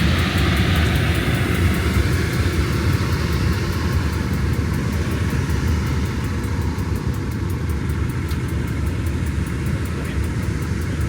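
Heritage diesel train running, heard from on board: a steady low rumble of engine and wheels on the line, easing slightly partway through.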